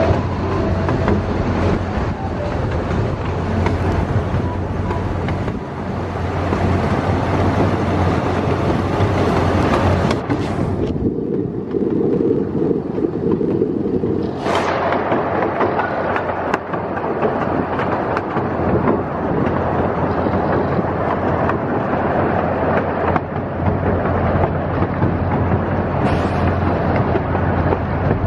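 Miniature park train running along its track, heard from an open passenger car: a steady rumble of wheels and running gear. The noise turns duller for a few seconds about midway.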